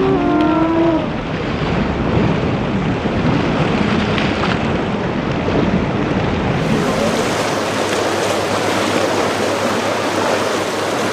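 Loud, steady rush of surf and churning water with wind buffeting the microphone.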